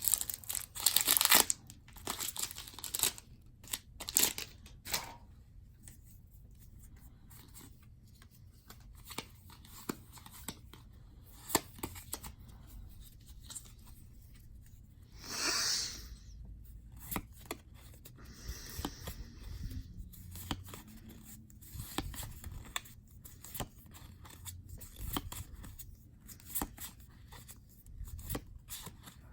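Pokémon trading-card booster packs being torn open, with loud foil wrapper tearing and crinkling at the start, again a few seconds in, and once more midway. Scattered small clicks and rustles come in between.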